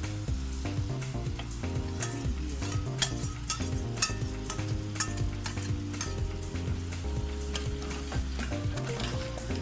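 Marinated chicken sizzling in hot masala in a steel pot as it is tipped in and stirred with a spoon. Background music with a steady beat plays underneath.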